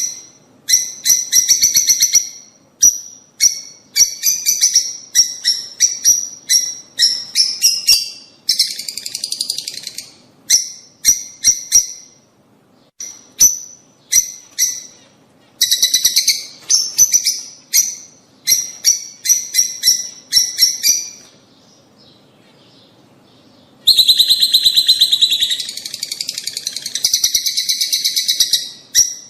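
Lovebirds chattering: quick runs of high, shrill chirps. The chatter goes quiet for about two seconds past the middle, then comes back as a denser, continuous burst.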